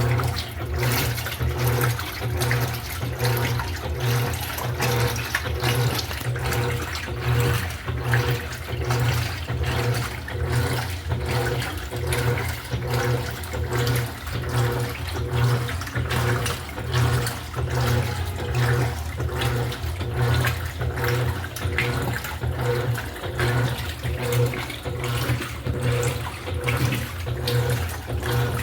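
Electrolux LED14 washing machine running its wash cycle: a low motor hum pulsing in level about once a second, with water churning in the drum.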